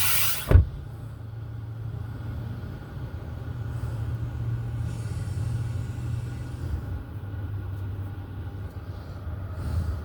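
A car's engine and road rumble, heard from inside the cabin as a steady low rumble. A loud hiss stops right at the start, and a single sharp thump comes about half a second in.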